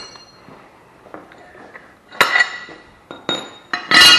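Steel mower blades clanking against metal, each knock ringing briefly: one clank about two seconds in, a lighter tick, then a louder clank near the end.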